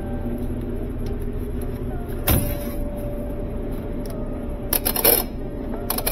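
Clothes dryer running with a steady hum. A sharp knock comes about two seconds in, and a short burst of clattering clicks a little before the end.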